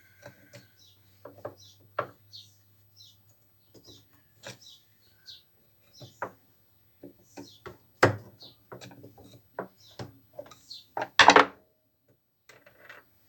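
Scattered knocks and clicks of tools and washing-machine parts being handled during disassembly, the loudest a sharp knock about eight seconds in and a short clatter about eleven seconds in. Small birds chirp throughout over a faint steady hum.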